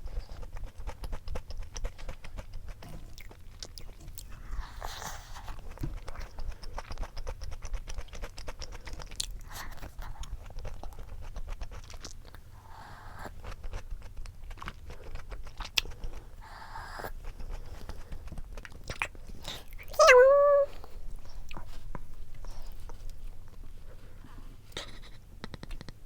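Close-up chewing and crunching of a crisp snack, with many small crackles. About two-thirds of the way through comes a loud, short pitched vocal sound whose pitch wavers.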